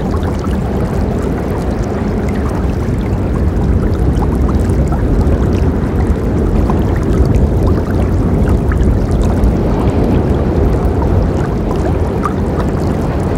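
Forest river flowing, a steady deep rush of water with small splashes and drips ticking over it.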